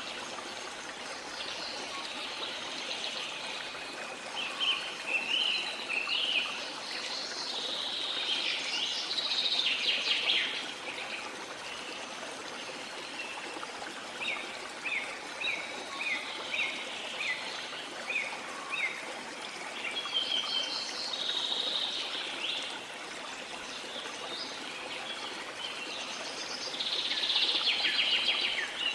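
Steady wash of water, sea waves, with small birds singing over it: bursts of song and runs of short repeated chirps, loudest around a third of the way in and again near the end.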